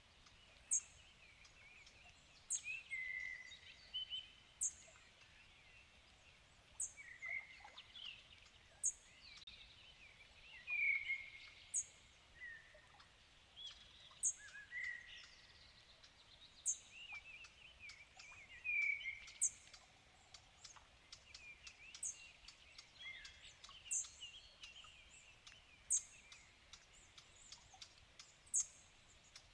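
Several wild songbirds singing in the evening. One repeats a short, very high note about every two seconds, while others chirp and warble in a lower register.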